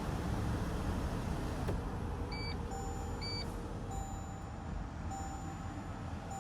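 Toyota Alphard's 2.5-litre inline-four engine running steadily with a low rumble. About two seconds in, two short high electronic beeps sound, then a lower beep begins repeating about once every second, like the car's in-cabin warning chime.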